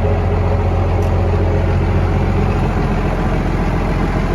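A 1993 Dodge Ram's 5.9 12-valve Cummins inline-six turbo diesel idling steadily. Its low drone eases slightly a little past halfway.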